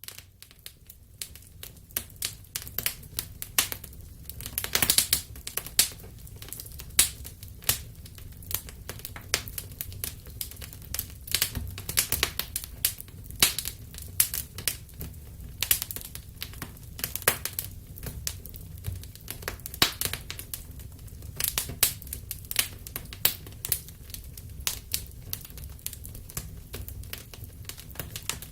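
Wood fire crackling in a fireplace: irregular sharp pops and snaps, some much louder than others, over a steady low rumble of the burning fire.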